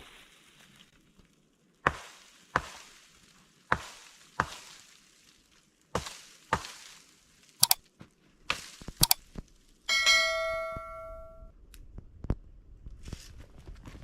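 A series of about nine sharp strikes, often in pairs, followed about ten seconds in by a single ringing metallic clang that dies away over a second and a half.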